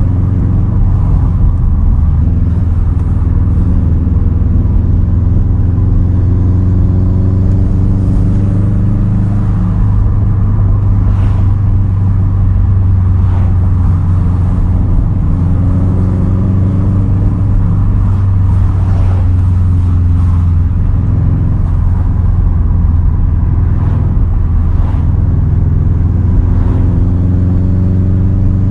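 2010 Subaru WRX STI's turbocharged flat-four running through a Tomei titanium single straight-pipe exhaust, cruising under steady throttle with a deep, low drone. The engine note shifts slightly in pitch about twenty seconds in.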